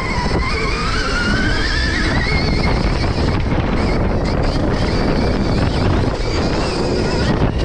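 Stark Varg electric motocross bike's motor whining, rising in pitch over the first two seconds or so as the bike accelerates, then holding, over a steady low rumble and wind noise.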